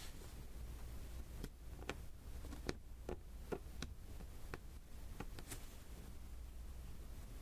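Resin diamond-painting drills tapped one at a time onto the sticky canvas with a drill pen: about ten light, sharp ticks at uneven intervals, from about a second and a half in until about five and a half seconds in, over a faint low hum.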